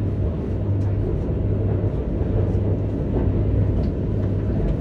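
Passenger train running at speed, heard from inside the carriage: a steady low rumble with a constant hum underneath and a few faint clicks.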